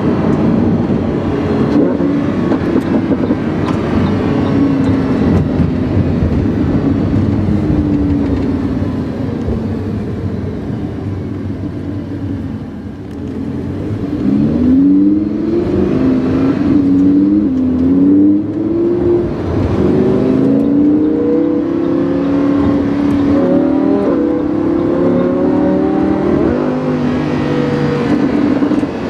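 Lamborghini Huracán's V10 engine with a PowerCraft aftermarket exhaust, heard onboard. It runs steadily, eases off briefly about halfway through, then revs up repeatedly, its pitch climbing and dropping back several times.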